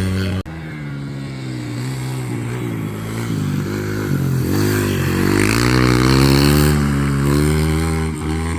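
Dirt bike engine running under riding load, its pitch repeatedly rising and falling as the throttle is opened and eased off. The sound breaks off abruptly for an instant about half a second in.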